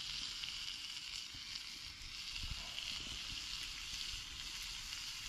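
Bacon-wrapped dove jalapeño poppers sizzling steadily in a hot pan.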